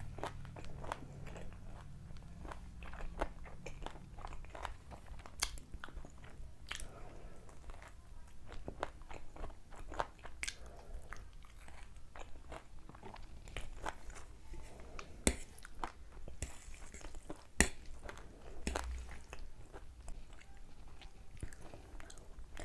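Close-miked eating: crunchy bites and chewing of a fried chicken lollipop, a run of small wet clicks and crunches. Two much louder sharp clicks stand out about two-thirds of the way through.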